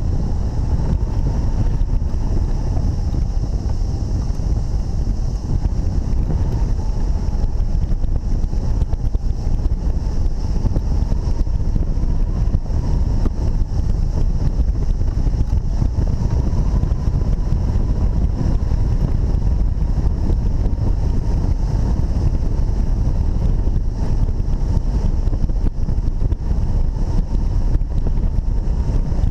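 Strong wind buffeting the microphone: a loud, steady rumble with no breaks.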